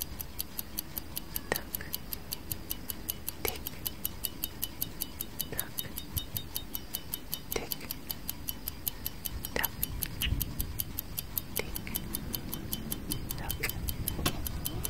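Clock tick-tock sound effect: rapid, even light ticks about five a second, with a stronger tick every two seconds, over a low rumble.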